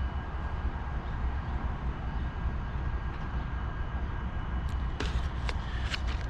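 Diesel locomotive idling with a steady low rumble, running as if ready to pull out. A few light clicks come in the last couple of seconds.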